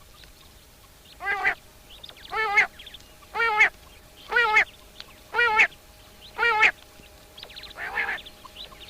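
A bird calling six times in a row, about once a second, each a short nasal, wavering call, with a fainter call near the end. Small birds chirp faintly behind.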